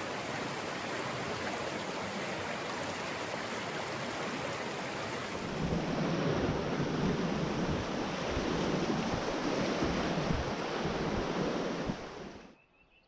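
Loud, steady rush of river water over rapids, deepening with a heavier low rumble about six seconds in, then cutting off abruptly near the end.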